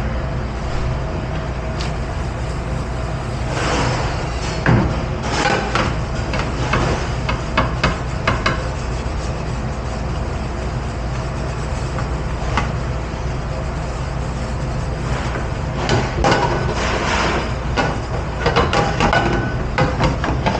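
Dishes, pans and utensils clattering as they are handled in a commercial dish pit, over a steady low hum. The clatter comes in bursts, about four seconds in and again from about fifteen seconds on.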